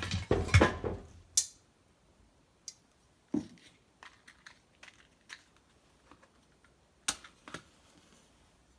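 Dry wood cracking and snapping, with a dense cluster of sharp cracks in the first second and a half, then scattered single snaps.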